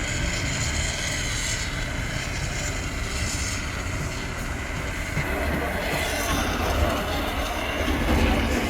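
A steady low mechanical rumble with a hiss over it and a faint steady whine, with no distinct knocks or strikes.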